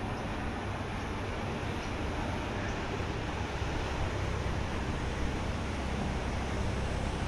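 Steady rush of ocean surf mixed with wind noise on the microphone.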